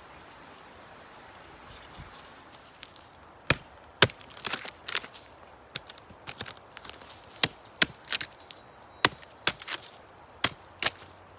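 Wood being chopped and broken: about seven sharp, loud strikes at irregular intervals, starting about three and a half seconds in, with splintering cracks between them.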